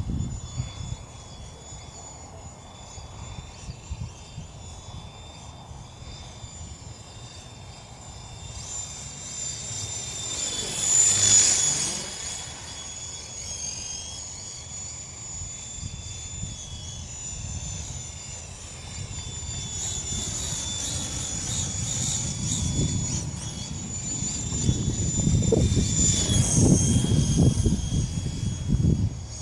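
Small FX070C RC helicopter flying, its motor and rotor giving a steady high whine that swells and bends in pitch as it passes close, about eleven seconds in and again near the end. Strong gusts of wind buffet the microphone, mostly in the last few seconds.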